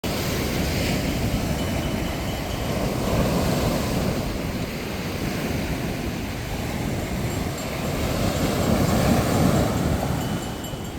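Sea waves washing ashore: a steady rush of surf that swells louder about three seconds in and again around nine seconds.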